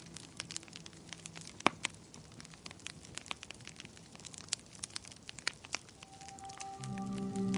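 Wood fire crackling in a fireplace: irregular small pops and snaps, with one sharp, loud pop about a second and a half in. Soft music fades out early and comes back in near the end.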